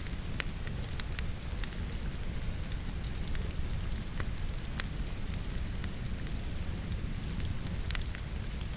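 Wood logs burning in a fireplace, crackling with scattered sharp pops, over a steady wash of falling rain.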